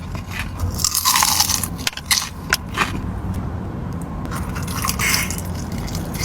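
Close-up eating sounds of a person biting into and chewing a seasoned chicken wing drumstick: irregular crunches, scrapes and wet mouth clicks, over a steady low hum.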